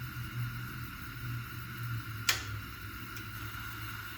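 Steady low hum of a lit propane heater burner, with one sharp click a little over two seconds in.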